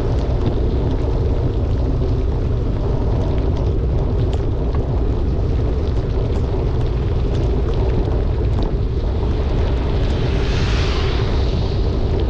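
Steady, loud wind rumble on the microphone of a bicycle descending in pouring rain, with raindrops ticking on the camera. About ten seconds in, a hiss of water spray swells and fades.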